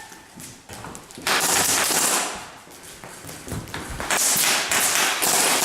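Airsoft guns firing rapid bursts: a stretch of fast clicking shots about a second in, and another from about four seconds in.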